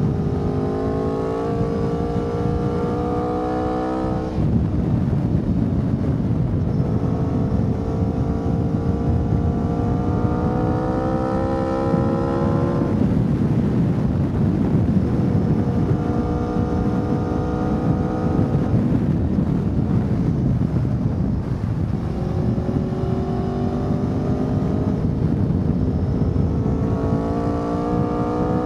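Aprilia Tuono V4 motorcycle engine on the move, its revs climbing in four long pulls and dropping back between them, over heavy wind and road rush.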